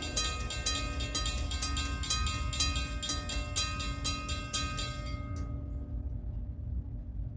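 Locomotive bell ringing with rapid, even strikes over a steady low rumble from the train; the bell stops about five seconds in, leaving the rumble.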